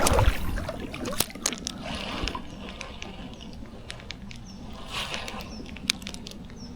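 Water sloshing and splashing at a canoe, with a knock at the start and scattered sharp clicks and taps of fishing gear while a hooked fish is brought in. A few faint, short, high chirps, like a small bird, come in the second half.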